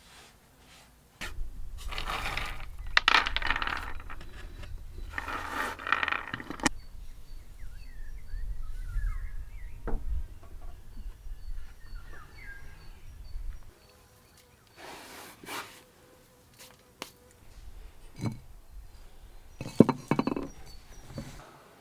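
Clinking and scraping of cooking utensils and dishes, with several short scraping stretches and scattered sharp clicks. A low rumble sits under the first half.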